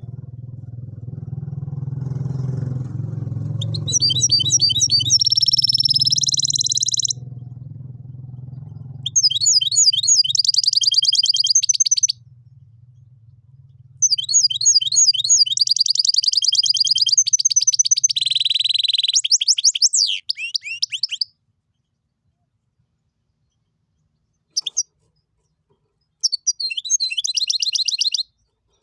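A goldfinch × canary hybrid singing in several fast phrases of high, rapid chirps and trills, with pauses between them. A low steady hum runs under the first part and fades out partway through.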